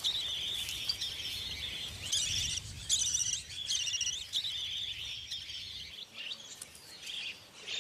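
Budgerigars chattering in a continuous run of fast chirping, warbling calls that grow sparser near the end.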